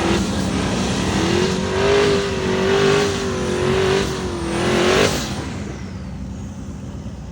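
Twin-turbo Mazda RX7 drag car's engine running hard at high revs, with a held, slightly wavering pitch, then fading off after about five seconds.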